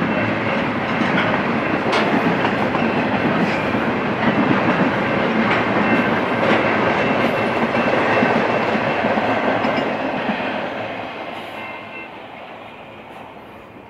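Tail end of a BNSF double-stack intermodal freight train rolling past, the container cars rumbling on the rails with scattered sharp clicks. The noise fades away over the last few seconds as the last car goes by.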